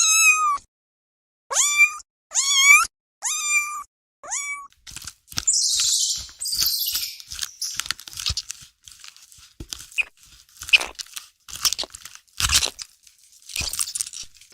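A cat meowing five times in short, high calls that rise in pitch at the start, followed by about ten seconds of irregular crunching and rustling.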